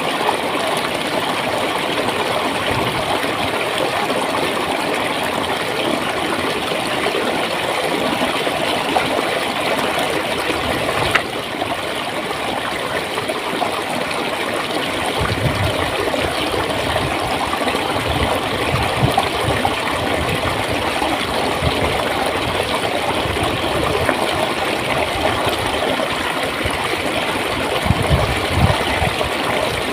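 Clear water flowing and gurgling steadily in a small stream, with a faint low rumble in the flow now and then.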